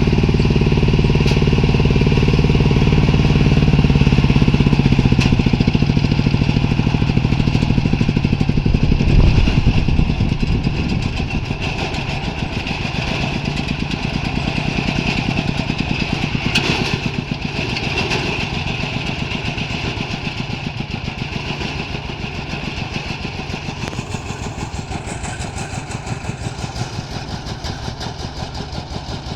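Diesel engine of a dos padi rice thresher running. For the first nine seconds or so it gives a loud, steady drone; about ten seconds in it drops back to a quieter, evenly pulsing chug.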